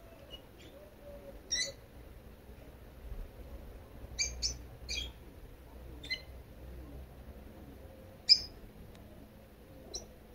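Small birds chirping: short, high chirps every second or two, the loudest about eight seconds in, over a faint low purr from a sleeping cat.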